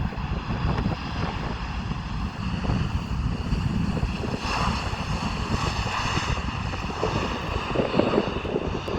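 Cargolux Boeing 747 freighter landing, its four jet engines giving a steady rumble with a high whine over it. The whine swells in the middle.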